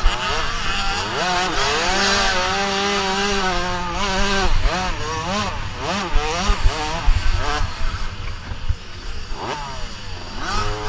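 Motocross dirt-bike engines revving, their pitch rising and falling again and again as the riders open and close the throttle and shift through the gears.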